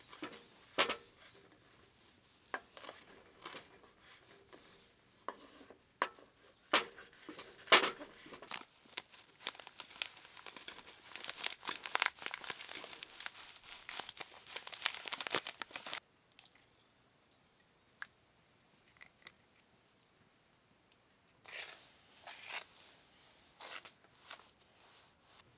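Crinkling and tearing handling sounds with scattered sharp clicks, thickening into a dense run of crackles that stops abruptly about two-thirds of the way through; a few more crackles come near the end.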